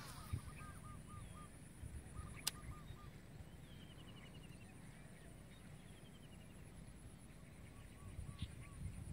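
Faint outdoor pond ambience: a bird calling in quick runs of short, arched notes, about five a second, and twice giving a short descending trill in the middle. A steady, high-pitched pulsing buzz runs underneath, and there is one sharp click about two and a half seconds in.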